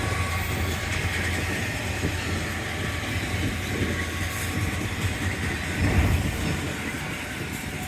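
Intermodal freight cars of a BNSF train rolling past on the rails, a steady low rumble of wheels on track, swelling louder for a moment about six seconds in.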